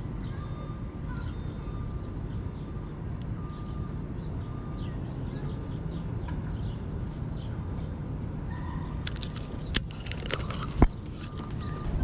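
Small birds chirping over a steady low rumble, with a few sharp clicks and a knock near the end.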